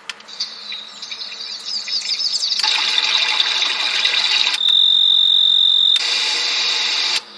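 Small white noise machine playing its built-in sounds and switching between them with a click each time: a rapid high chirping, then a steady hiss, then a steady high tone, then hiss again.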